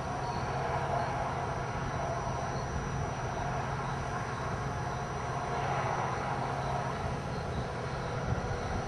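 Steady road noise inside a moving car: a constant low engine hum under an even hiss of tyres and wind.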